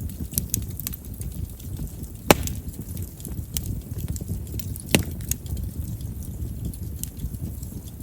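Chestnut firewood burning in a campfire: a low flame rumble with steady small crackles and two loud pops, about two seconds in and about five seconds in. Chestnut is known to pop readily because of its large wood vessels.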